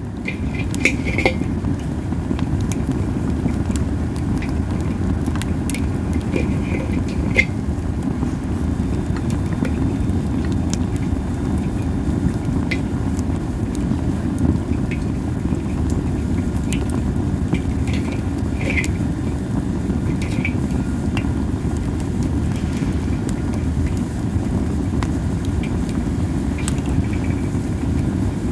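Campfire of masaki (Japanese spindle) wood burning over a steady low rumble, with scattered crackles and pops and a few short high hisses from moisture steaming out of the wood.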